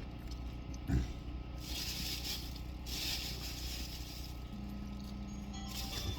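Low steady hum inside a parked car's cabin, with two stretches of rustling, such as a food wrapper being handled, from about a second and a half in to past the middle.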